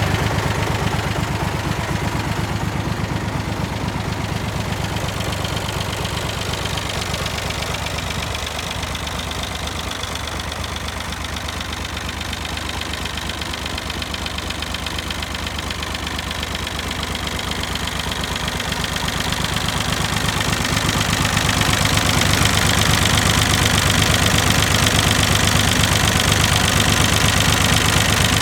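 David Brown 885 tractor's three-cylinder diesel engine running steadily with a knocking diesel beat. It dips a little in loudness in the middle and grows louder again about two-thirds of the way through.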